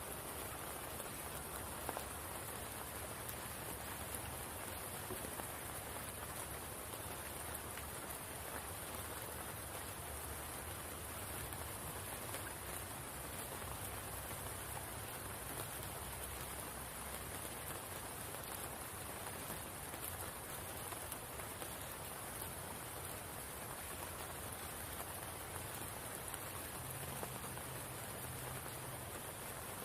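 Steady rain falling, an even hiss with a light patter of scattered drops.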